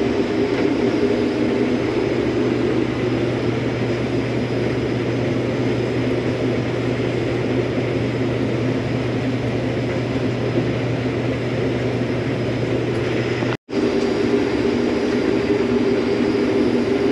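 Combine harvester running steadily while cutting wheat: a constant engine and machinery drone with a low steady hum. It cuts out for an instant once, near the end, and picks straight back up.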